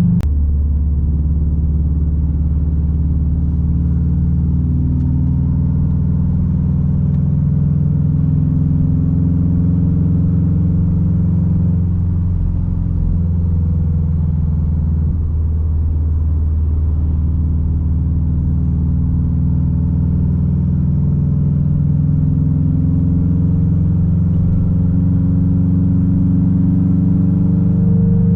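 Straight-piped 2006 Subaru WRX STI's turbocharged 2.5-litre flat-four running at steady low revs, its exhaust rumbling loud and deep, with only small changes in pitch.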